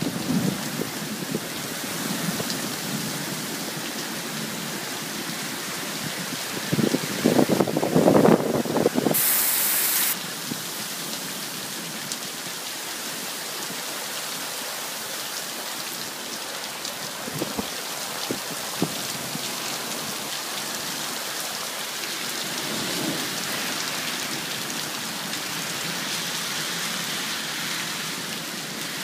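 Heavy thunderstorm downpour: a steady hiss of rain pouring onto the street and pavement. About seven seconds in, a louder rumble of thunder lasts about two seconds.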